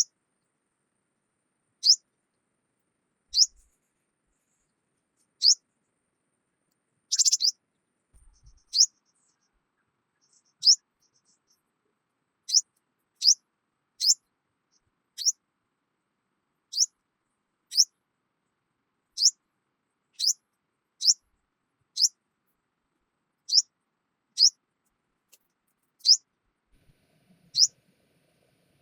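A bird repeating one short, high chirp about every one to two seconds, with nothing else audible behind it. One note about seven seconds in is louder and harsher than the rest.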